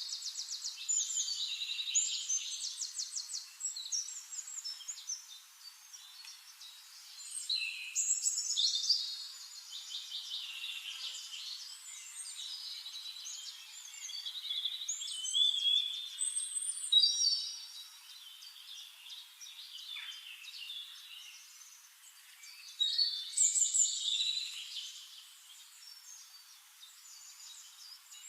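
Songbirds singing: quick, high chirps and rapid trills from several birds overlapping, swelling into louder bursts of song every several seconds with quieter chirping in between.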